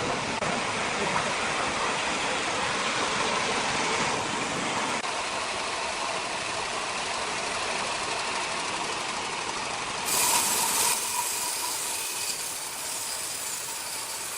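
Sawmill machinery running: a steady noise without a clear pitch, changing abruptly about five and again about ten seconds in.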